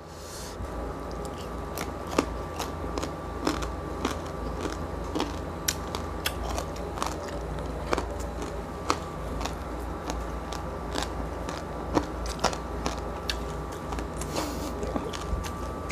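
Close-miked chewing and biting of crispy roast pork skin (lechon), with many sharp, irregular crunches and crackles.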